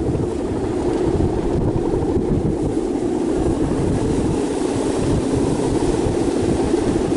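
Strong wind buffeting the microphone: a steady, loud, low rumble that rises and falls with the gusts.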